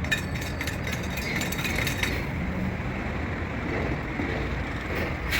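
Quick light metallic clinks and taps, many in the first two seconds, over a steady background rumble of workshop and street traffic.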